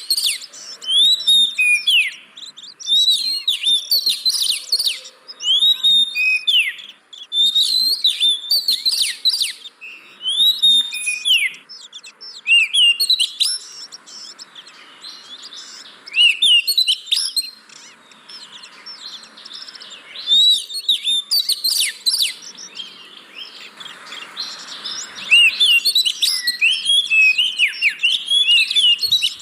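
Oriental magpie-robin singing: loud, varied whistled phrases and rapid trills in bursts every second or two, softer for a stretch in the middle.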